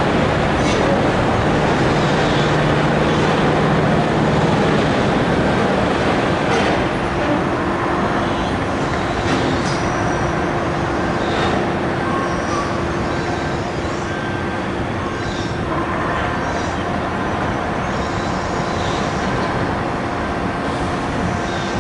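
Steady rumble of heavy machinery running, with a faint steady hum and scattered faint clicks and knocks.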